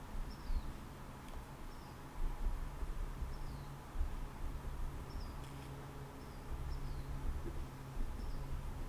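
A bird calling over and over with short, high chirps that slide down in pitch, about one every second, over a steady low hum and rumble.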